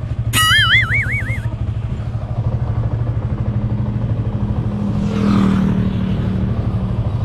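Motorcycle engine running steadily. About half a second in, a brief warbling high whistle sounds for about a second, and a swell of noise rises and fades around five seconds in.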